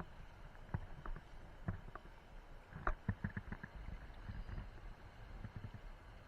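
Gusty wind rumbling unevenly on the microphone, with scattered short clicks and knocks; the sharpest knock comes about three seconds in.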